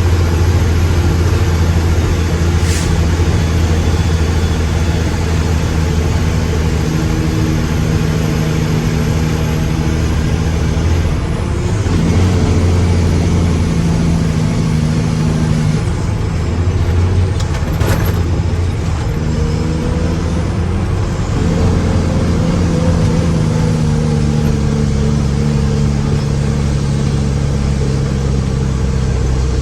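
Mack truck's diesel engine running under load, its engine speed stepping down and back up several times, with a couple of brief sharp clicks.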